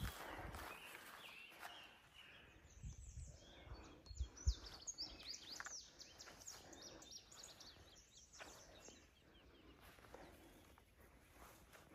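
Songbirds singing faintly in a meadow: a quick string of high, rising and falling chirps from about two seconds in until near the end, over a few low thumps at the start.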